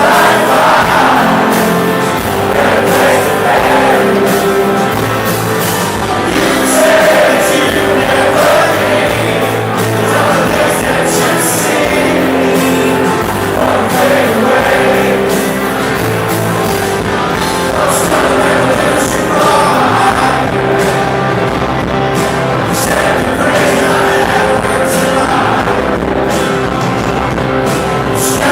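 Live rock band playing with a sung vocal line over sustained chords.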